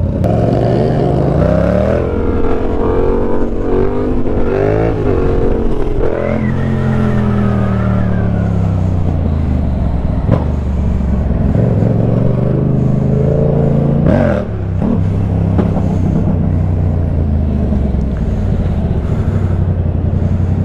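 Motorcycle engines running while riding, their pitch repeatedly rising and falling as the throttle is opened and closed and gears change.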